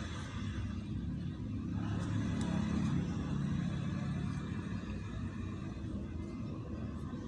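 Low, steady rumble of a motor vehicle running, growing louder for a couple of seconds near the middle, then easing off.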